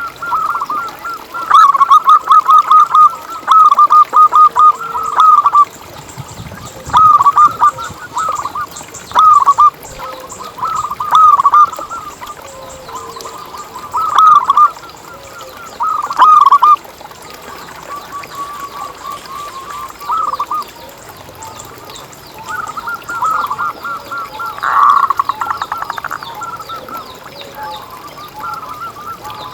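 Zebra dove (perkutut) cooing in phrases of quick staccato notes, repeated every second or two, louder in the first half. Fainter high chirps of other birds come between the phrases.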